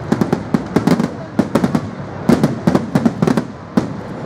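Fireworks display going off: many sharp bangs and crackles in quick clusters.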